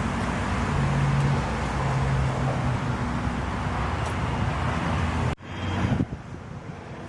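2011 Honda Pilot's 3.5-litre V6 idling steadily, with some wind on the microphone. The sound cuts off suddenly about five seconds in, leaving a quieter, windy background.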